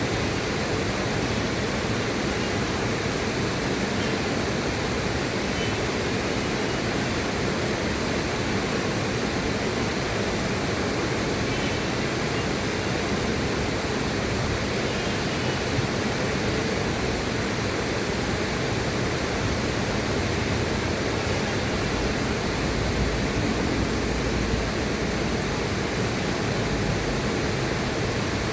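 Steady rushing of river water, an even, unbroken rush with no separate splashes.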